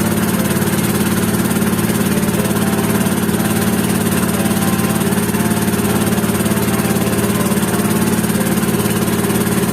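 Engine of a small motorised passenger boat (bangka) running at a steady speed, a constant even drone with a rapid firing pulse.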